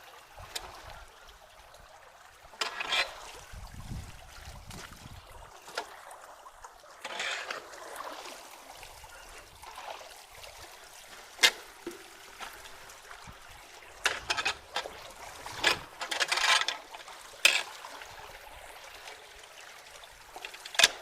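Water trickling and running through a creek culvert that is being cleared of blocking sticks, with sharp knocks and short splashes now and then as the debris is worked loose.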